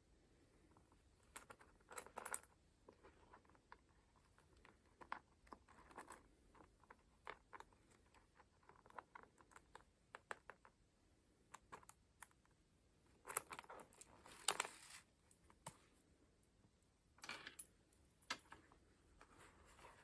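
Collage book pages being turned by hand: soft paper rustling and light taps and clicks, with a few louder rustles about two-thirds of the way through.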